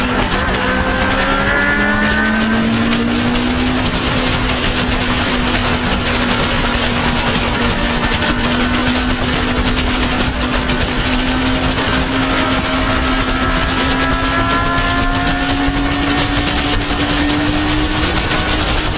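Motorcycle engine running at a steady cruise under a constant rush of noise, its note dipping slightly about a second in and then rising slowly as the bike gathers speed.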